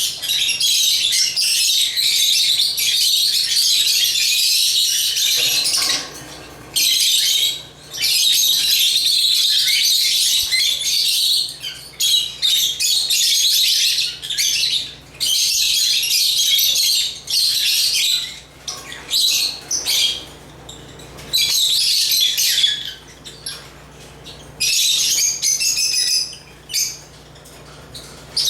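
African lovebirds chirping and chattering, high rapid calls in long runs of several seconds broken by short pauses.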